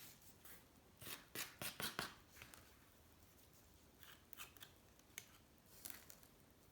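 Quiet short clicks and scrapes of a small hand tool working at a motorcycle engine case: a quick cluster between one and two and a half seconds in, then a few scattered ones.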